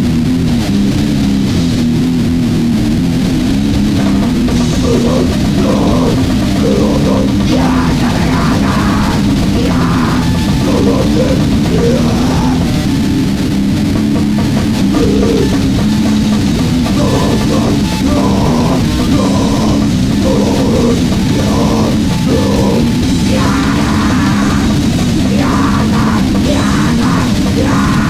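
Loud, distorted grindcore/noise band playing: fast, constant drumming under heavily distorted guitar and bass, with bursts of harsher higher sound that may be shouted vocals.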